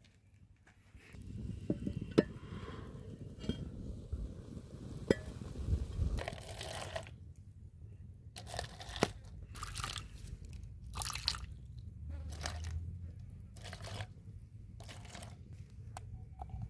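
Handling noises from someone at work: scattered clinks and knocks, with several short crunching or scraping bursts, starting about a second in.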